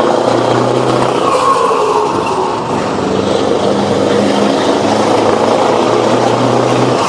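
Scania 164 580 truck's V8 diesel engine running loud and continuous through an open exhaust, its note shifting a little with a slight easing about two and a half seconds in.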